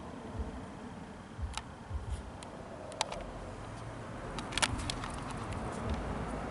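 A few light clicks over a low, steady rumble inside a car cabin, like controls or a phone being handled. There is a cluster of clicks about two thirds of the way through.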